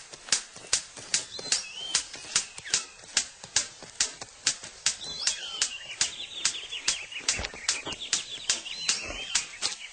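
Male superb bird of paradise courtship display: sharp clicks at an even rhythm, about two and a half a second, with quick high chirping notes joining in over the second half.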